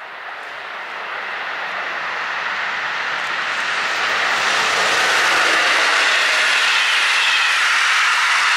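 Electric-hauled passenger train approaching and passing at speed. The rushing noise of wheels on rails grows louder over the first few seconds, then holds steady as the coaches go by close at hand.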